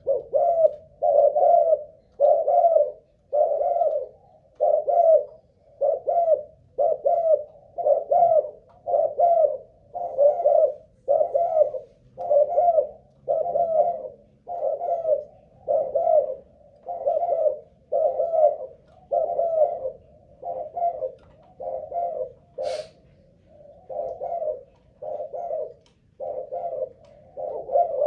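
Spotted dove of the Malaysian cu gáy strain cooing in a long unbroken run, low coo notes following one another about every three-quarters of a second. This is the sustained cooing that a lure bird's stamina is judged by. A short sharp click comes late on.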